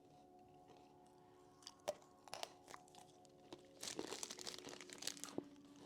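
Faint crunching and crinkling of snack food and its wrapper: a few light clicks, then a longer crinkly stretch past the middle. Quiet steady background music underneath.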